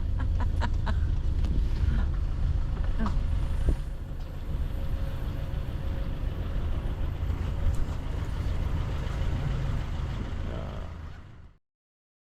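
Steady low rumble of a moving road vehicle with wind noise, with a few light clicks about a second in; it fades out near the end.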